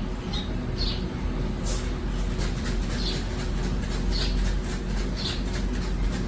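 Steady low rumble with short high chirps about once a second, and from about two seconds in a fast, even, very high pulsing.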